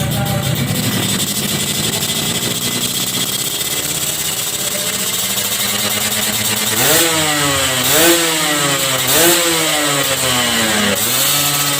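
Yamaha RX-King's 135 cc single-cylinder two-stroke engine running through an aftermarket stainless racing exhaust. It runs steadily with the pitch creeping up, then is revved in three quick throttle blips about a second apart, each falling back, and once more near the end.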